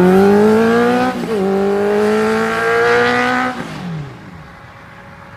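Honda CBR650F inline-four through a titanium slip-on exhaust, accelerating: the engine pitch climbs, dips at an upshift about a second in, climbs again, then drops and fades away about three and a half seconds in.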